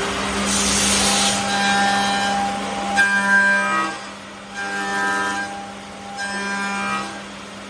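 CNC wood lathe turning a wooden workpiece: a steady motor hum under the cutting tool scraping the wood. The cutting comes in several passes a second or two long, each with a whining tone, loudest about three seconds in.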